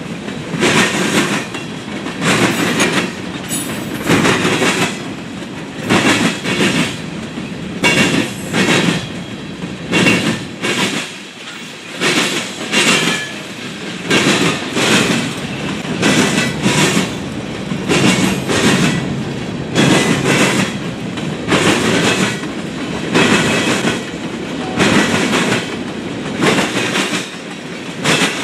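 Freight train cars (tank cars and boxcars) rolling past, their wheels clacking rhythmically over the track in a steady clickety-clack, often in pairs about once a second, over a continuous rolling rumble.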